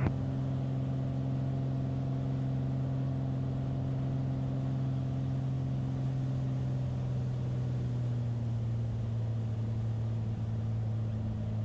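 Beechcraft Bonanza's piston engine and propeller running steadily at low landing power, heard from inside the cockpit; the drone drops slightly in pitch about eight seconds in as power comes back further.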